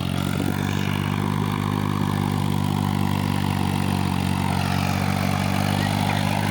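Sonalika tractor's diesel engine running at a steady speed, its pitch holding without revving.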